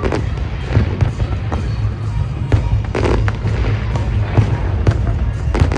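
Fireworks display: a dense run of sharp bangs from bursting shells over a continuous low rumble.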